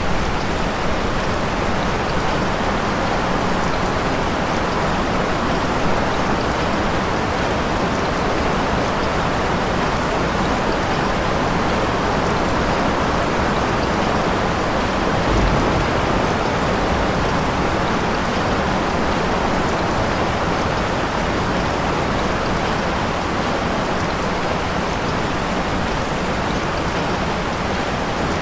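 Steady, heavy rain falling, an even dense hiss of drops on surfaces.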